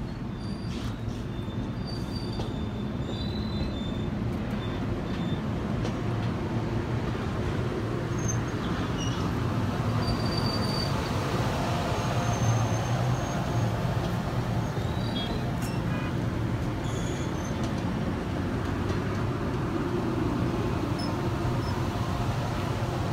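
Circus train passenger cars rolling past, a steady rumble of steel wheels on rail that grows a little louder over the first several seconds, with brief high-pitched wheel squeals here and there.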